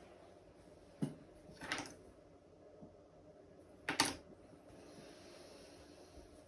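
Game pieces being set down on a tabletop: two small sharp clicks, about a second in and about four seconds in, with a brief soft rustle between, over a quiet room.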